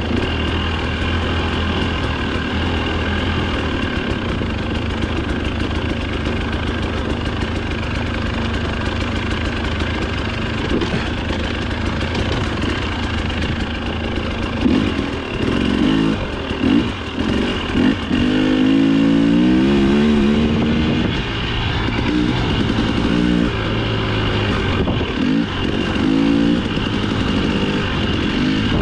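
Dirt bike engine running hard on a trail, revving up and down, with a long rising rev about two-thirds of the way through.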